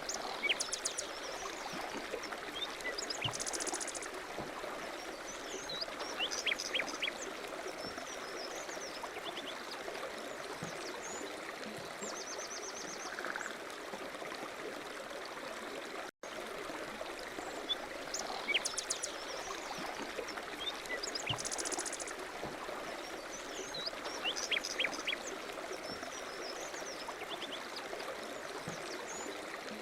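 Steady running water of a stream with small birds chirping and trilling over it. The same stretch of stream and birdsong repeats after a brief dropout about halfway through: a looped nature-sound recording.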